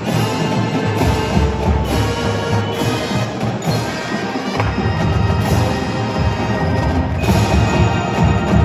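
Pep band playing live music, with sustained pitched instruments over a steady drum beat.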